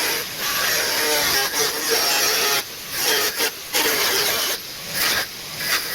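Angle grinder on a homemade sliding stand cutting, a dense hissing grind with the motor's wavering whine underneath. The noise eases off briefly a few times.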